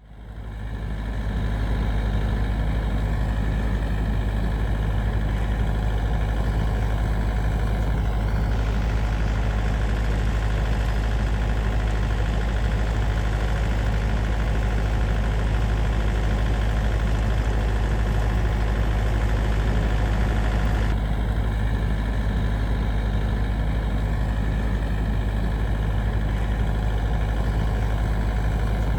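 Snowblower engine running steadily with a deep hum, fading in at the start. A brighter hiss joins it from about eight seconds in until about twenty-one seconds in.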